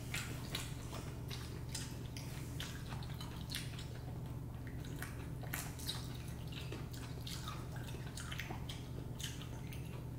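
Wet mouth sounds of eating: scattered small clicks and smacks of chewing, over a steady low hum.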